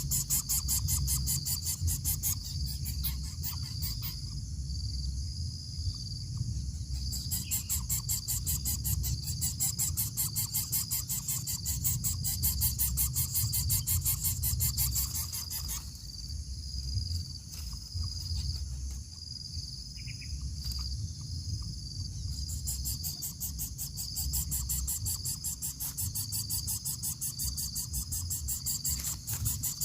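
Crickets and other insects: a steady high-pitched cricket trill, with a fast rattling insect chirr starting and stopping in bouts over it. A low rumble sits underneath.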